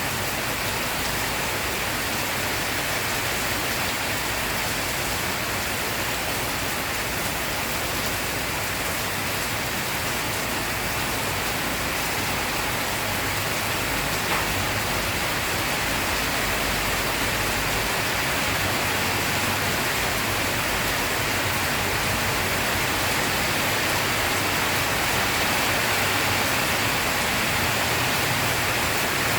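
Steady rain falling, an even, continuous hiss of rain on surfaces.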